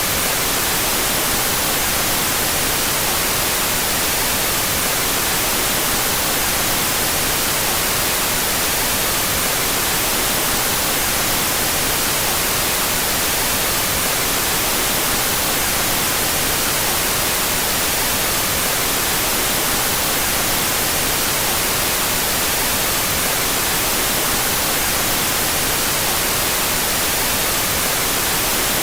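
Steady white noise: a continuous, even hiss that does not change, with its two stereo channels out of phase.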